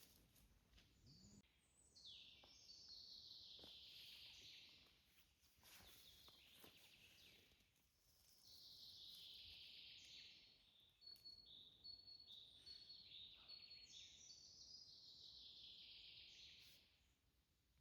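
A songbird singing faintly: three long songs that each slide down in pitch over two to three seconds, about six seconds apart, with a few short high notes between the second and third.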